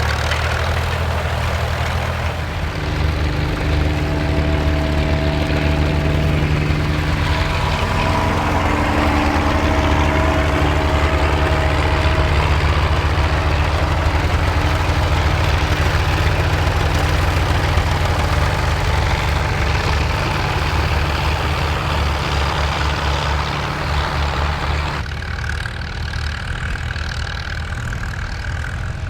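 Vintage Ford tractor engine running steadily under load, with a low pulsing beat. The sound changes abruptly near the end, as another engine takes over.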